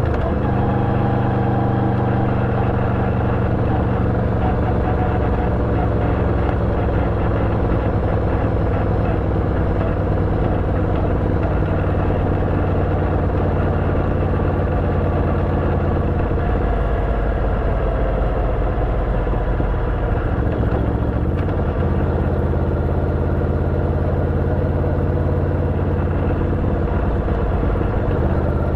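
Yamaha V-Max 1700's V4 engine running at a steady cruise through an Akrapovič exhaust with a dB-killer, heard from the bike while riding. The note wavers about two-thirds of the way in, then settles at a slightly different pitch.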